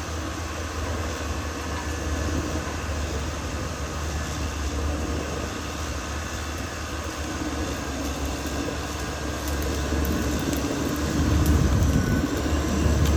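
Caterpillar D6R XL bulldozer's diesel engine running steadily, louder for a couple of seconds near the end.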